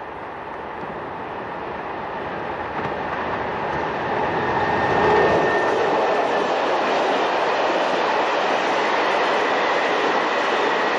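Freight train passing close by: the rolling noise grows louder over the first five seconds as it approaches, then the wagons rumble steadily past, with a faint high steady whine over the top.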